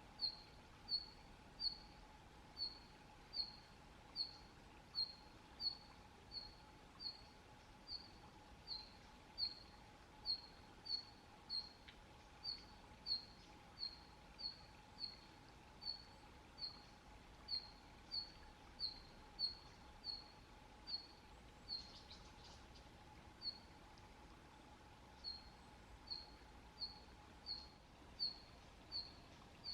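A small bird repeating a single short, high call over and over, about one and a half calls a second, against a faint steady hum.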